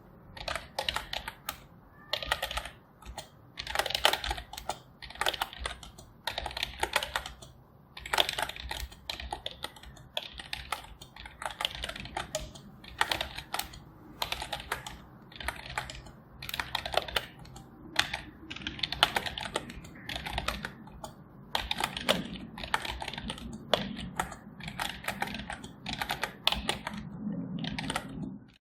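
Computer keyboard being typed on in quick runs of keystrokes, with short pauses between the runs.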